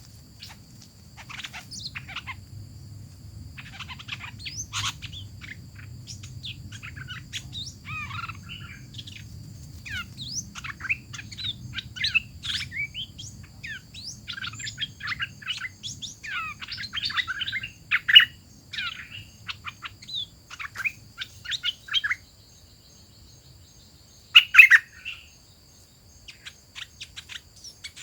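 Hoạch thơm songbird singing: a rapid, varied run of chirps and whistled notes, with a pause of about two seconds near three quarters of the way through. A faint steady high tone runs underneath.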